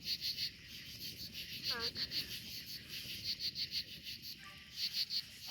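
Crickets chirping steadily in repeated short pulse trains, with one brief rising vocal sound about two seconds in.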